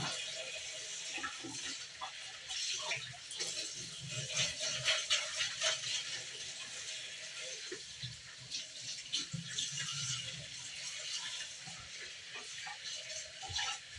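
Water running from a kitchen tap, with small irregular clatters of things being handled under it.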